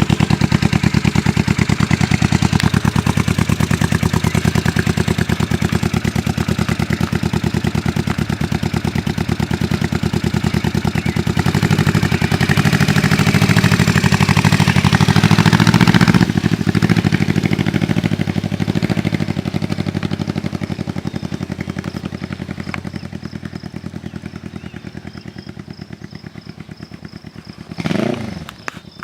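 1980 Yamaha XS400 parallel-twin engine through Emgo shorty mufflers, idling with a steady rapid exhaust beat. About halfway through it gets louder for a few seconds as the bike takes off slowly, then fades steadily as it pulls away. Just before the end there is a short sound that rises and falls in pitch.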